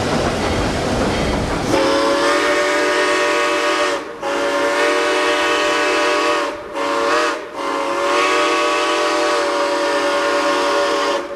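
Steam locomotive whistle sounding a chord in four blasts, long, long, short, long: the standard grade-crossing signal. Before the whistle, in the first couple of seconds, the train is heard running.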